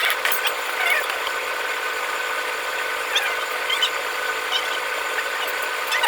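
A power tool running steadily, with a few short, high scraping sounds over it.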